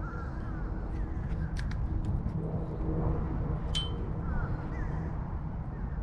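Outdoor background: a steady low rumble with a faint hum, short high chirps that sound like small birds, and a few light clicks, the sharpest about four seconds in.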